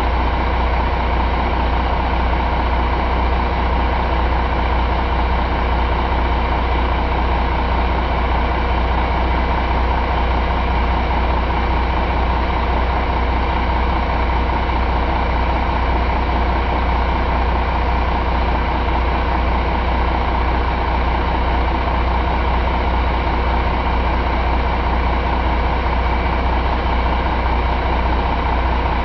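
2005 Cummins ISM inline-six diesel engine running steadily at idle, with an even, unchanging low rumble.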